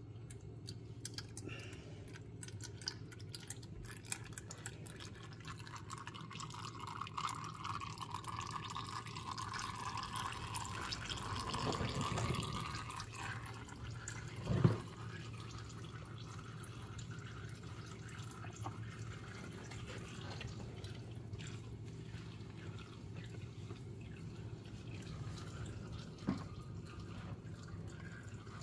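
Engine oil draining from an open car sump into a bucket: a steady pouring and dripping stream over a low hum, with a sharp knock about halfway through and a lighter one near the end.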